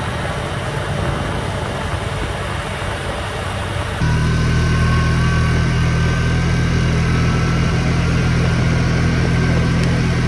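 Motor vehicle engine running steadily. About four seconds in it changes abruptly to a louder, steadier drone with a faint high whine above it.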